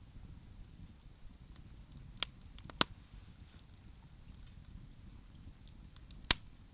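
Wood fire crackling: scattered faint ticks and three sharp pops, about two, three and six seconds in, over a low steady noise.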